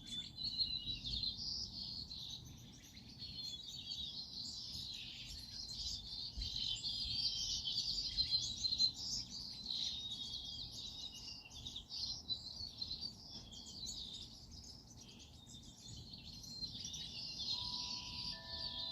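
A chorus of many small birds chirping and twittering together, a dense, unbroken tangle of high calls.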